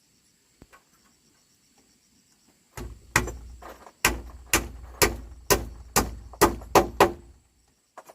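Hammer blows, about ten in a row at roughly two a second, over a low rumble.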